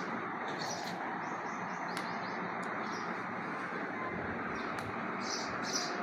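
Short, high bird chirps, a few at a time, over a steady background hiss.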